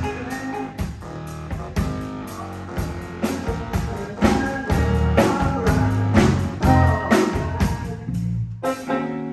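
Live band music: electric guitar over bass and drum kit, a blues-rock groove with a steady beat, breaking off briefly near the end.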